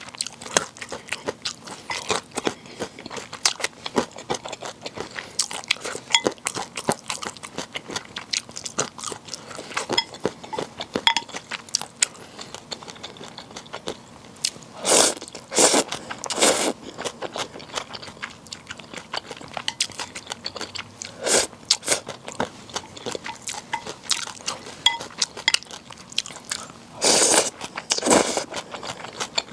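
Close-miked eating of bibim naengmyeon: steady chewing and biting with many small wet mouth clicks. A few louder, longer noisy bursts come in clusters about halfway through, again a little later, and near the end.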